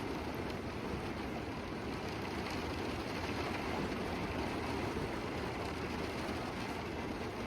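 Heavy rain pouring down steadily: an even, continuous hiss and patter of dense rainfall.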